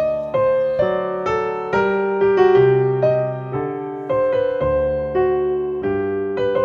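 Piano music: a slow melody of notes that each strike and fade, about two a second, over lower held notes.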